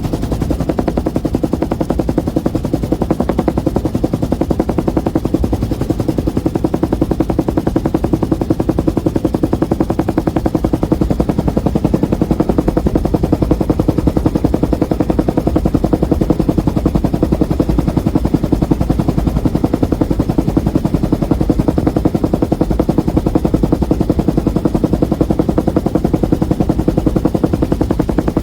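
1966 Bell UH-1 Huey helicopter in flight: the steady, rapid whop of its two-bladed main rotor over the turbine's drone.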